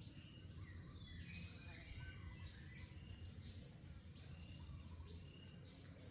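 Faint outdoor ambience: a steady low hum, a few soft rustling clicks and scattered faint high chirps.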